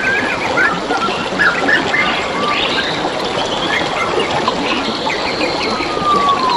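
Running water trickling over stones with several forest birds singing over it: short chirps, a whistled note sliding downward near the end, and quick trills.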